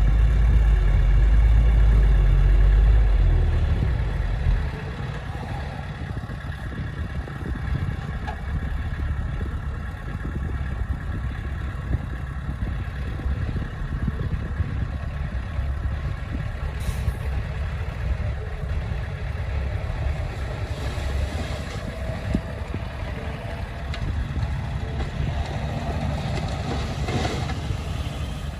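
Heavy diesel earthmoving machinery running, loud and low for the first four or five seconds, then easing to a steadier, quieter running with a faint high whine.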